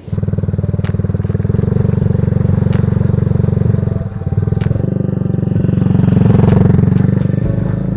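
Motorcycle engine running under way, its exhaust pulsing steadily, with a brief dip about four seconds in before it builds again.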